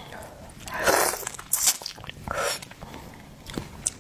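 Close-miked eating sounds: seafood being bitten and chewed, in a few wet, noisy bursts in the first half, the loudest about a second in.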